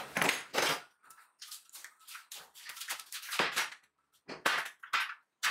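A string of short, irregular knocks and clanks of metal tools and steel parts being handled at a workbench.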